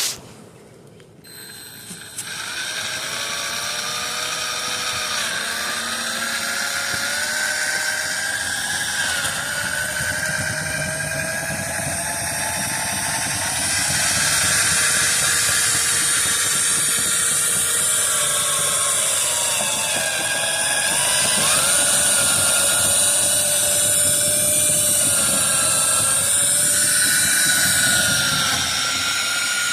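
Power drill spinning a rotary dryer-vent cleaning brush: the motor starts about two seconds in and runs continuously, its whine wavering up and down in pitch and growing a little louder about halfway through.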